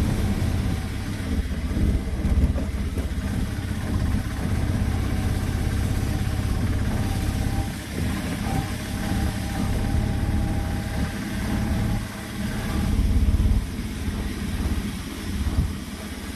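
A motor vehicle's engine running, a steady low rumble with noise over it that swells and dips throughout.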